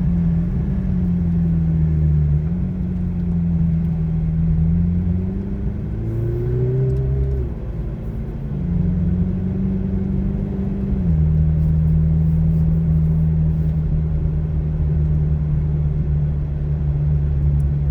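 McLaren Artura's twin-turbo V6 running at a low, steady pitch while driving on the runway, stepping up and down slightly. About five seconds in it revs up, then the pitch drops off sharply around seven and a half seconds before settling back to an even note.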